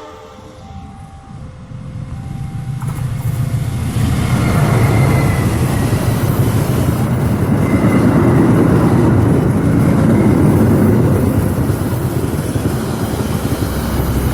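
Diesel train passing close at speed: a rumble with wheel and rail noise that builds over the first few seconds, stays loud through the middle, and begins to fade near the end.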